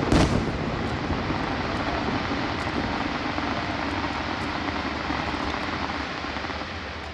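Fireworks: a loud boom just after the start, then a steady rumbling roar with faint crackles that slowly fades.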